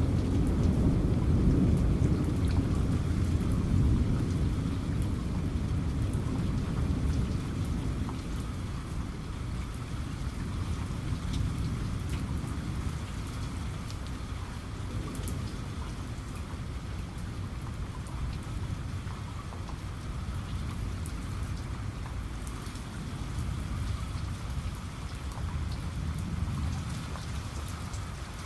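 Steady rain falling, with scattered sharp drop ticks on a surface. A low rumble of thunder fades away over the first several seconds, leaving the rain alone.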